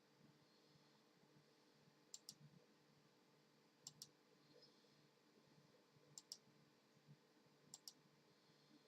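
Sharp clicks in pairs, four pairs about every two seconds, over a faint steady hum.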